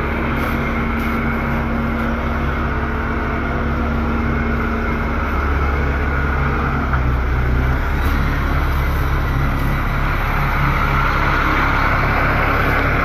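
Crane truck's engine running steadily while it lifts a rooftop HVAC condenser, with a steady higher tone over it that drops out about five seconds in.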